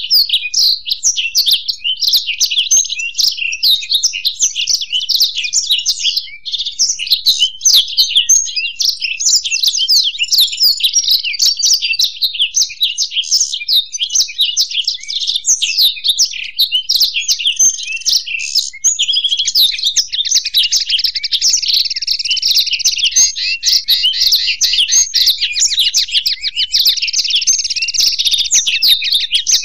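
Blackthroat (black-throated canary) and goldfinch song: a continuous, rapid, high twittering warble. About two-thirds of the way in it turns into a fast run of buzzy, trilled repeated notes.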